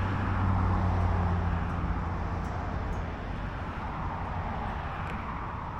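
A low motor hum that fades away after about two seconds, over a steady rushing noise.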